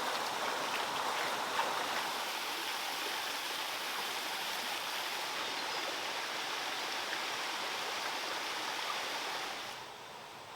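Running water, a steady rush of flowing and splashing. It drops abruptly to a quieter level near the end.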